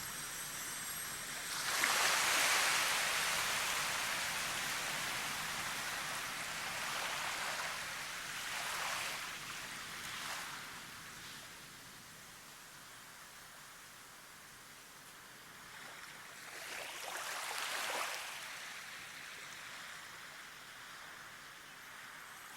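Waves washing in and drawing back, a rushing water noise that swells and fades: one large surge shortly after the start, smaller ones in the middle, and another building to a peak about three-quarters of the way through.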